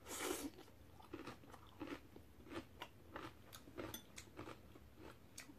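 A mouthful of crisp napa cabbage kimchi being bitten and chewed: a first crunch, then a run of irregular short crunches about every half second.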